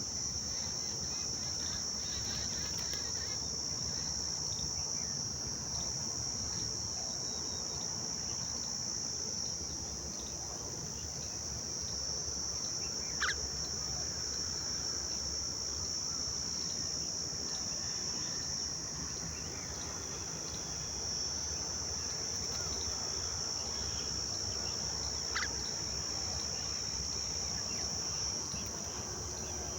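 Steady, unbroken high-pitched drone of insects, with two brief sharp sounds, one near the middle and one towards the end.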